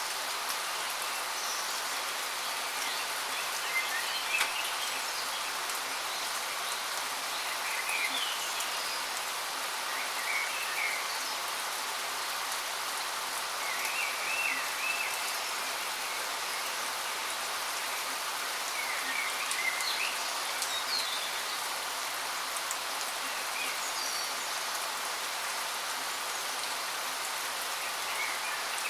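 Waterfall rushing steadily, with birds calling in short chirps every few seconds over it.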